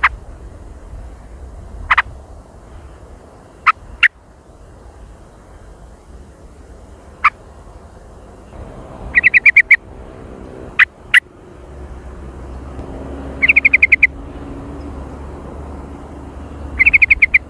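Sooty-headed bulbul calls: sharp single notes every couple of seconds, broken three times by a quick rattling trill of about six notes, over a low background hum.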